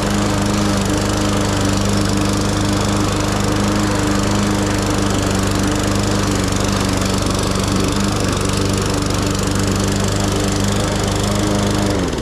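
Lawn mower engine running steadily at constant speed, cutting grass; right at the end its pitch drops and the sound falls away.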